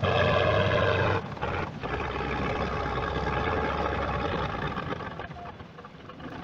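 A heavy vehicle's engine running loud and steady, dropping sharply in level about a second in, then continuing more quietly and fading near the end.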